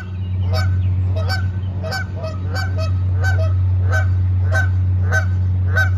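Geese honking over and over, about two to three short honks a second, over a steady low hum.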